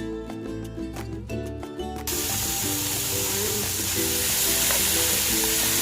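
Background music, then about two seconds in a pan of pork spare ribs sautéing with garlic and onion cuts in abruptly with a steady sizzle, the music continuing underneath.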